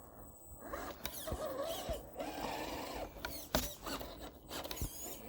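Radio-controlled car's electric motor whining, its pitch wavering up and down, with several sharp knocks and clicks scattered through it.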